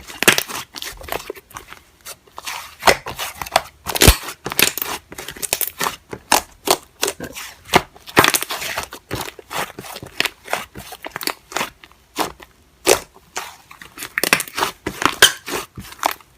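Slime being squeezed, pressed and stretched by hand, making a dense run of crackling, crunching clicks and small pops.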